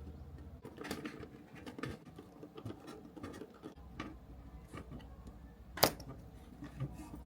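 Small model-kit parts and tools being handled on a work surface: light scratching, rustling and tapping, with one sharp click about six seconds in.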